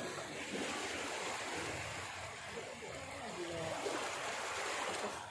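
Steady rushing water, with faint voices under it.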